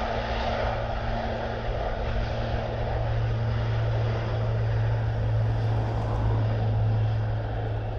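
RAF Airbus A400M's four turboprop engines at full takeoff power: a loud, steady low propeller drone over a dense rushing engine noise as the aircraft rolls and climbs away.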